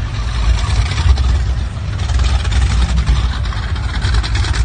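Motorboat engine running steadily with a low rumble, under a constant hiss.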